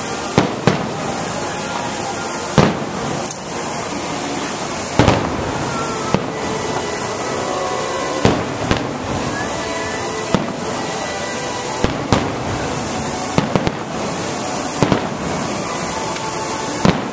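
Aerial fireworks shells bursting: about fifteen sharp bangs at irregular intervals, some in quick pairs, over a steady background din.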